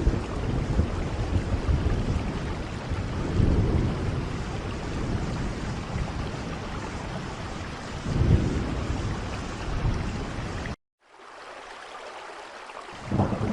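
Steady rain falling, with low rolls of thunder swelling twice. About eleven seconds in the sound cuts out for a moment, comes back quieter, then rises again near the end.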